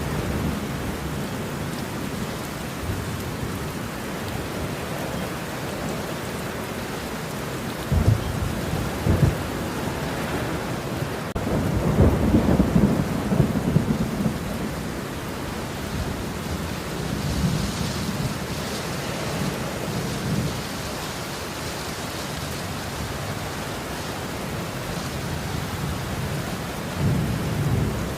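Thunderstorm: steady rain with rolling thunder, a short rumble about eight seconds in and a louder, longer roll about twelve seconds in.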